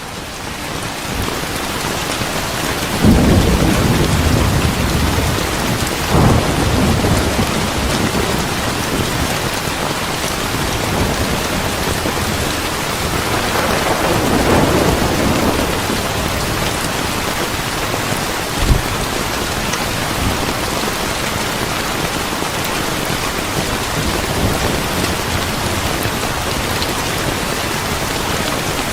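Steady heavy rain with rolls of thunder: one about three seconds in, another around six seconds, and a longer one around fourteen to fifteen seconds in.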